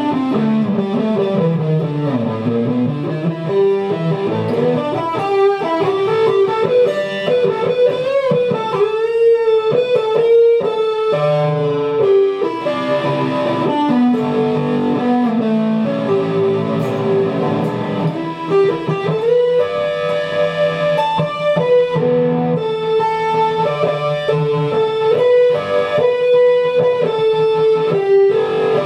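Guitar music: a melodic guitar line over sustained notes, with pitch bends and slides about a third of the way through.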